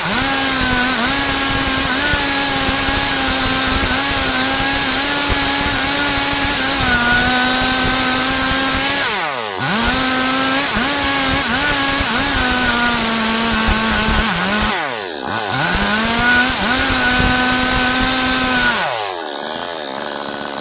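Stihl MS 382 two-stroke chainsaw running at full throttle, cutting wood. Its pitch drops sharply and climbs back about nine and a half and fifteen seconds in, then falls to a lower note near the end.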